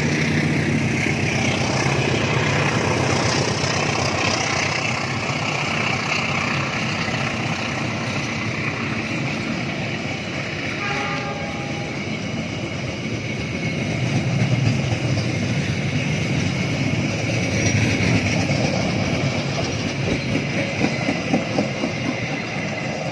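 Passenger train carriages rolling past on departure, a steady rumble of wheels on rails with clattering over the rail joints and a brief tone about halfway through. The clatter grows sharper near the end as the sound begins to fade.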